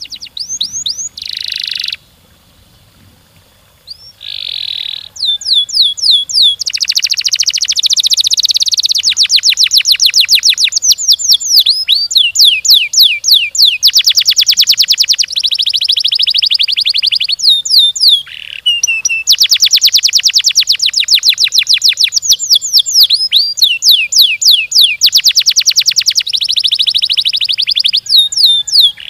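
Domestic canary singing long, fast rolling trills: runs of quick downward-sweeping notes repeated many times a second, some so rapid they run together. There is a short pause about two seconds in.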